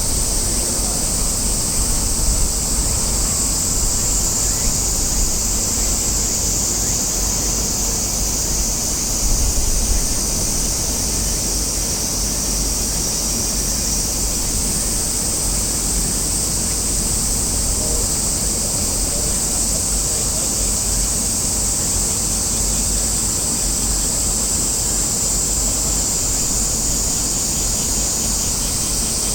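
Cicadas droning steadily in a high continuous chorus, over a low rumble that swells briefly about nine seconds in.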